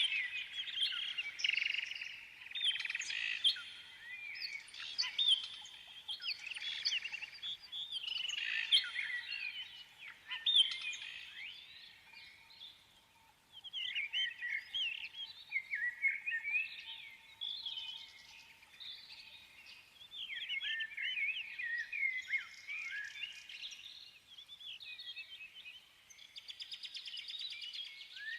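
Small songbirds singing, a continuous run of quick chirps and warbling phrases with a short lull about halfway through.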